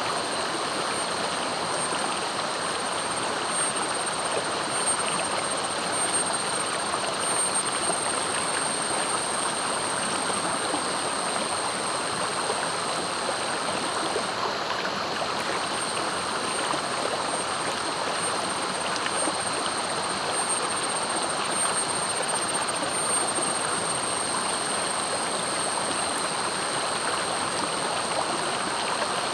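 Clear, fast-flowing river rushing steadily. A thin, steady high-pitched tone sits above it and breaks off briefly about halfway through.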